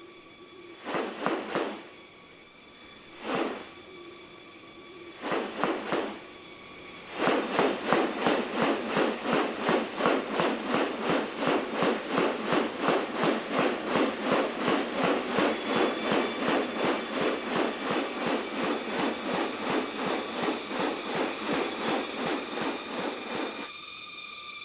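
Rainforest insects keep up a steady high-pitched drone. After a few short bursts, a fast, even pulsing of about four beats a second starts about seven seconds in and stops just before the end.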